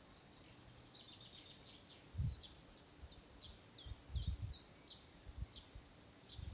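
A small songbird singing: a series of short, high chirping notes, some curving downward, with a quick trill about a second in. A few low bumps on the microphone, about two and four seconds in, are louder than the song.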